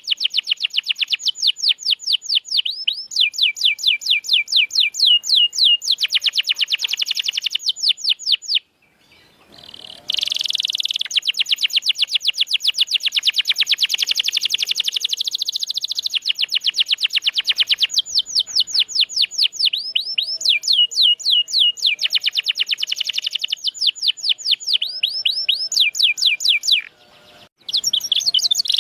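Domestic canary singing in fast trills of rapidly repeated notes, moving from one rolling phrase to the next, with a brief pause about nine seconds in.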